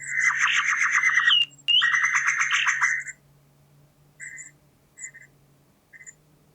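Bird calls from a field recording: a loud, fast rattling series of repeated notes for about three seconds, broken briefly in the middle, followed by three short, fainter chirps.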